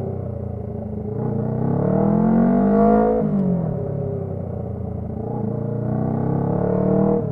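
Honda CB125T motorcycle's parallel-twin engine through a loud aftermarket muffler, revving up about a second in, easing off around three seconds, then building again and dropping off sharply near the end.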